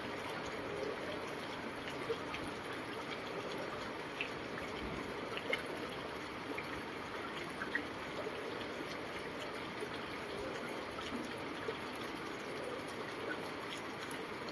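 Steady rushing noise of running water, with scattered faint ticks and small splashes.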